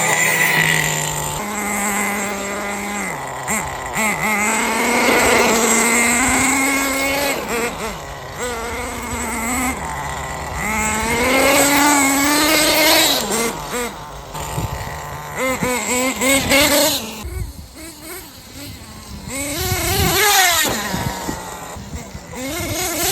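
HPI Bullet 3.0 nitro monster truck's 3.0cc G3.0 nitro engine running hard as the truck is driven, revving up and falling back again and again, with a brief lull in the middle.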